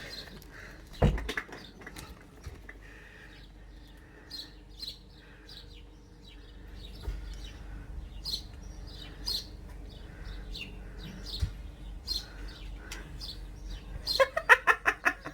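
Wild garden birds chirping: short, high chirps repeated through the whole stretch. There is a sharp knock about a second in.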